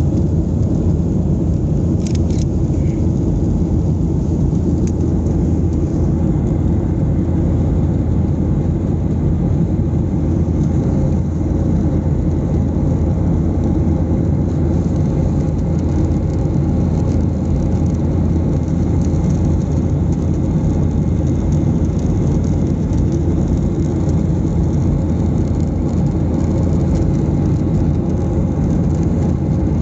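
Steady low rumble of a Boeing 737-800's engines and airflow heard from inside the passenger cabin, with a couple of faint clicks about two seconds in.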